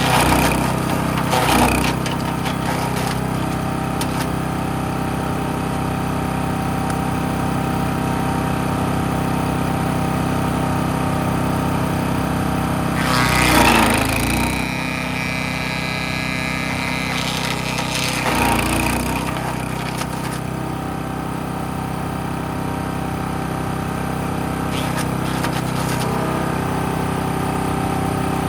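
Gas-engine wood chipper shredder running steadily, with several bursts of wood being fed in and chipped; the loudest burst comes about halfway through.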